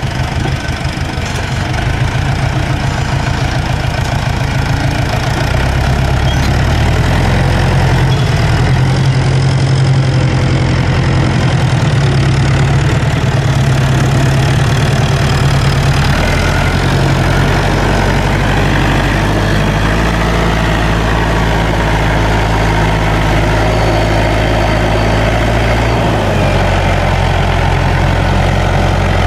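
Landini tractor's diesel engine running steadily and loudly, its note shifting a few times, at about 5, 16 and 26 seconds in.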